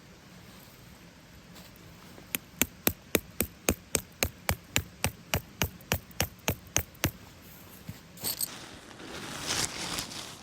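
Rapid, evenly spaced knocking, like hammer strikes, about three or four a second for some five seconds; near the end, rustling and crackling.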